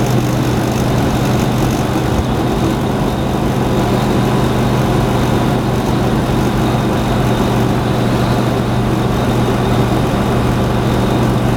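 1968 Dodge Charger's 440 V8 running steadily, a deep, even drone that holds the same pitch throughout.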